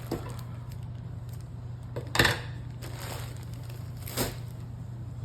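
Short rustles and knocks of hands handling paper craft pieces and lace at a table: a faint one at the start, a sharp, louder one about two seconds in and another near four seconds, over a steady low hum.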